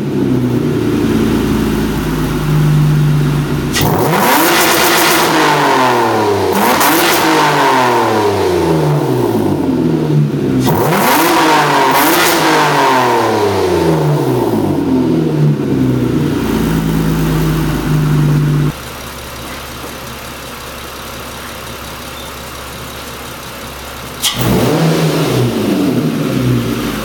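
Mitsubishi Eclipse GT's 3.8-litre V6, with a throttle-body bypass, washers in the cat-back exhaust and the intake resonator deleted, revved several times, each rev rising sharply and falling slowly back. Past the middle it settles into quieter steady running for about five seconds, then revs again near the end.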